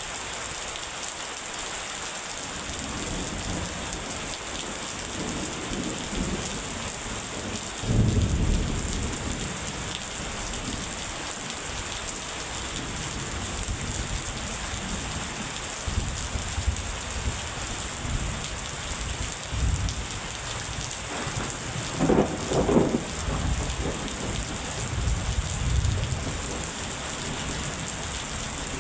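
Steady heavy rain with rolling thunder: a loud thunderclap about eight seconds in, another strong crack of thunder around two-thirds of the way through, and lower rumbles between.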